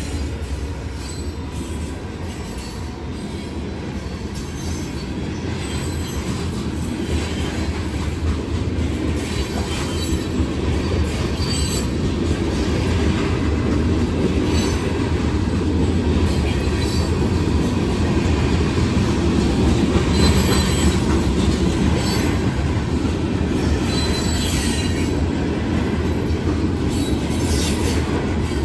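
Covered hopper cars of a long freight train rolling past: a steady rumble of steel wheels on rail with clacking over the joints and brief wheel squeals now and then, growing louder over the first twenty seconds.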